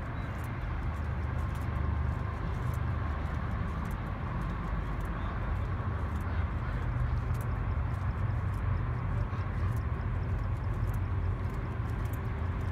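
Several classic muscle cars' engines idling and creeping past in a slow line, a deep steady rumble with a faint uneven pulsing.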